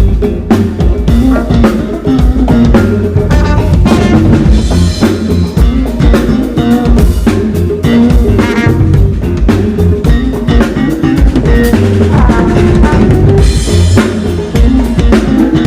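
Live band playing amplified music, drum kit to the fore with kick, snare and rimshots over a bass line and other instruments, during a sound check.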